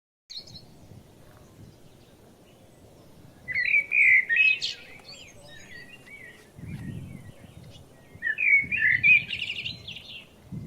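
A songbird singing two loud warbling phrases, a few seconds apart, over a low outdoor background rumble.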